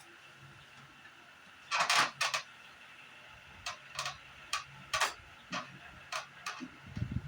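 Light clicks and taps of hand work on an air-conditioner unit: a quick cluster about two seconds in, then single clicks roughly every half second.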